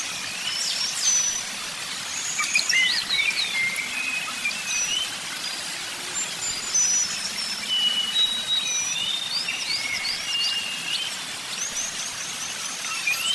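Several songbirds chirping and whistling, short notes and quick rising and falling slurs overlapping one another, over a steady hiss.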